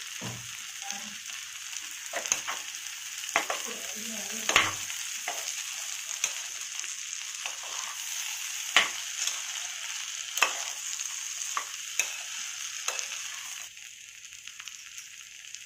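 Sautéing rice, vegetables and spices sizzling in an oil-and-ghee mix in a pot, with a spoon stirring and now and then knocking and scraping on the pot. The sizzle drops noticeably near the end.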